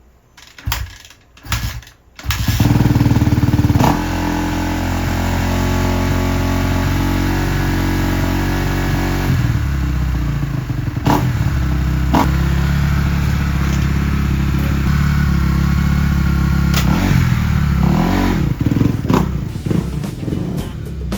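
Kawasaki 250 four-stroke dirt bike engine starting: two short bursts, then it catches about two seconds in and runs louder for a moment. It then settles to a steady run, with its note shifting about nine seconds in and a few short revs near the end.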